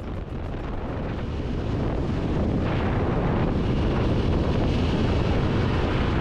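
Heavy wind buffeting the microphone while riding a Yamaha Ténéré 700 adventure motorcycle, with the bike's running engine mixed in. It rises over the first couple of seconds, then holds steady.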